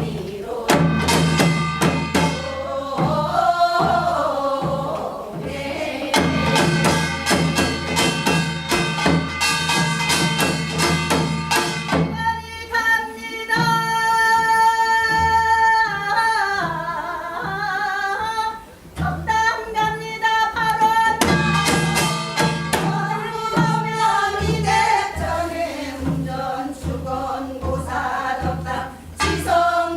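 Korean folk singing in the Gyeonggi and Seodo style (gyeongseodo sori), with long held notes that waver and bend in pitch, over steady drum strokes and instrumental accompaniment.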